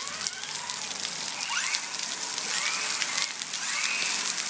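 Steady hiss of hard rain with many drops striking close by. Over it, the Traxxas Slash VXL's brushless motor whines up and falls back in three or four short throttle bursts.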